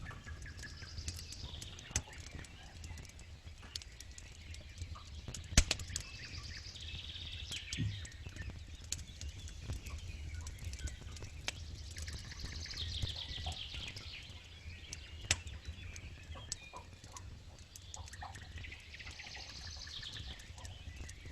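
Campfire crackling and popping over a low steady rumble, with one sharp pop about five and a half seconds in. Birds sing short trilled phrases now and then in the background.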